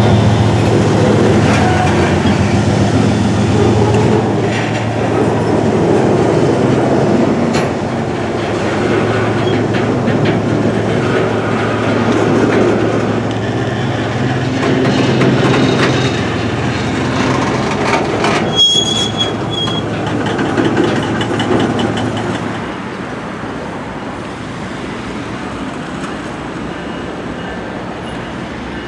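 Freight train rolling past: diesel locomotive engine drone with wheel and car noise on the rails, and a brief high wheel squeal about two-thirds of the way through. The low engine drone drops away near the end, leaving quieter rolling noise.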